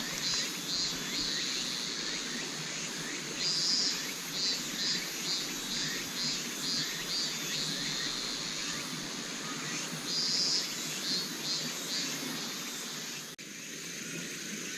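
An insect calling in a regular high chirp, about four pulses a second, drawn out into longer notes twice, over a steady rushing noise of flowing river water. Near the end the sound cuts abruptly to a quieter scene.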